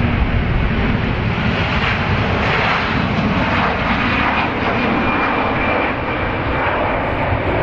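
Aircraft engines running loud and steady, with a faint high whine in the second half.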